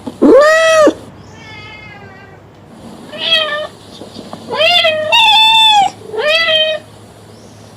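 A cat meowing repeatedly: about five high, arching meows of around half a second each, with a softer, wavering call between the first two.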